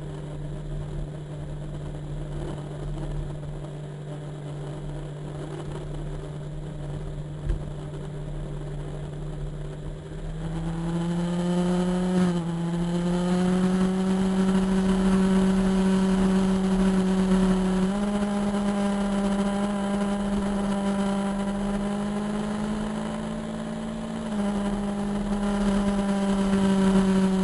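Motorcycle engine running while riding, steady at first, then speeding up about ten seconds in and shifting pitch in steps a few times. A single sharp click sounds about seven seconds in.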